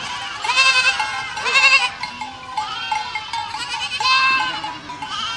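Several goats bleating: about four quavering calls at different pitches, one after another.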